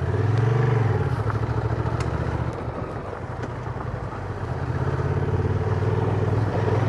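Honda Transalp motorcycle's twin-cylinder engine running at low speed. It gives a short rise and fall in pitch about half a second in, eases off to a quieter note in the middle, then pulls steadily again.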